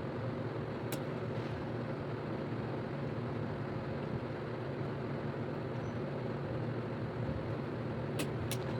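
Steady mechanical hum with a constant low drone, broken by a sharp click about a second in and two more near the end.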